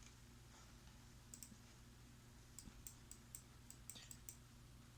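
Faint computer mouse clicks, about a dozen, scattered irregularly and mostly in the middle of the stretch, over a low steady hum.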